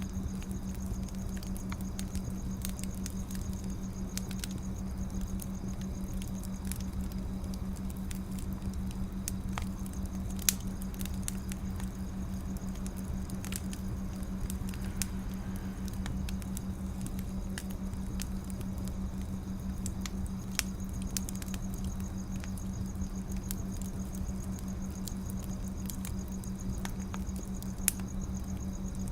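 Wood fire crackling: scattered sharp pops and snaps over a steady low rumble, with two louder pops, about ten seconds in and near the end.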